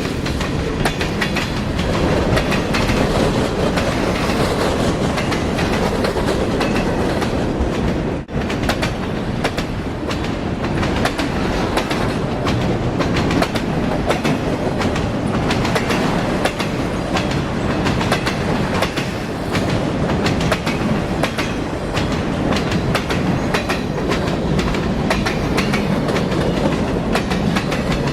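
Train cars rolling past at close range, their wheels clicking steadily over the rail joints.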